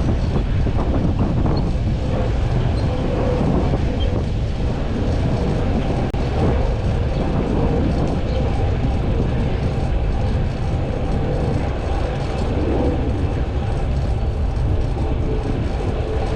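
Steady rumbling vehicle noise with faint steady tones running through it.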